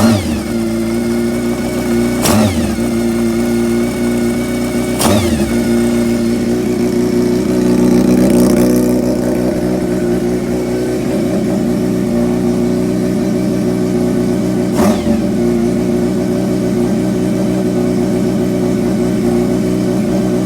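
Kawasaki GPZ400F's swapped-in Zephyr χ air-cooled inline-four engine, breathing through CR carburettors, idling steadily. There are quick throttle blips right at the start, about 2 and 5 seconds in, and near 15 seconds, each rising and dropping back at once, and a slower swell in revs around 8 seconds.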